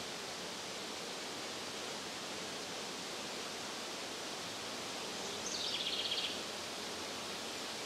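Steady outdoor rushing noise, with a short, high, rapid bird trill about five and a half seconds in.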